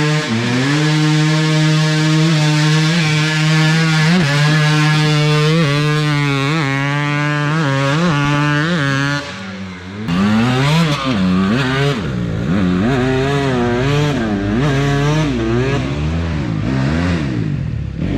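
Dirt bike engine held at high revs with a slight wavering for about nine seconds. It drops off briefly, then revs up and down over and over.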